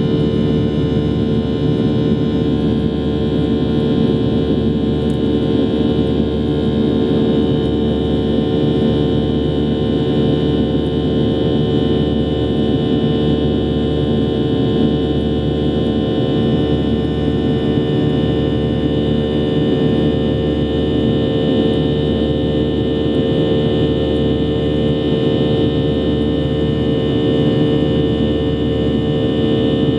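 Steady cabin noise of a Boeing 737-800 in flight: its CFM56-7B jet engines running with a constant hum and several steady tones over rushing airflow, heard inside the cabin.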